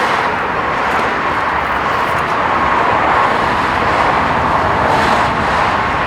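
Steady motor-vehicle noise: a constant rushing hum with a faint steady tone in it.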